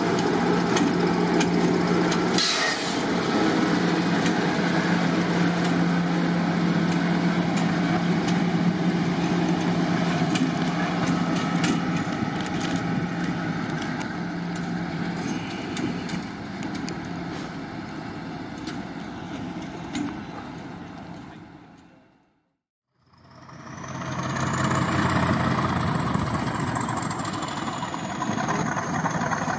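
Diesel locomotive engine running with a steady low note, slowly fading away. After a brief silence a second train's sound rises, with a high whine that climbs and then slowly falls.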